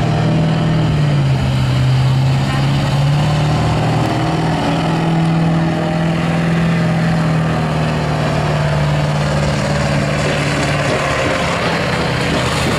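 Engine of a competition pulling truck or tractor running hard at high, fairly steady revs as it drags the weight-transfer sled down the track, its pitch dipping briefly about a second in.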